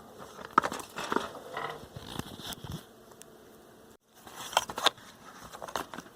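Handling noise as a Heathkit transistor radio is worked out of its stiff leather case: irregular scraping and rubbing with several sharp clicks and knocks.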